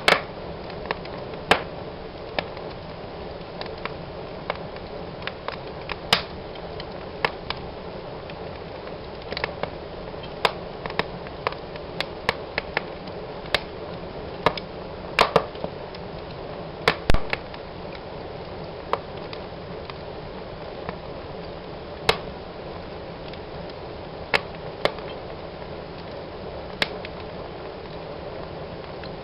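Wood fire burning in a fireplace: a steady hiss of flames with irregular sharp crackles and pops, one every second or two, the loudest about two-thirds of the way through.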